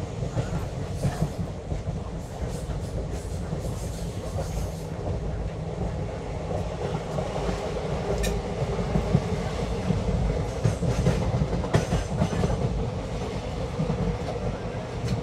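Passenger train running along the track with a steady low rumble and the occasional click of wheels over rail joints.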